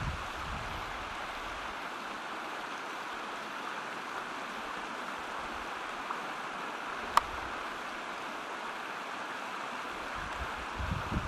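Steady rush of river water flowing over rapids, with one sharp click about seven seconds in.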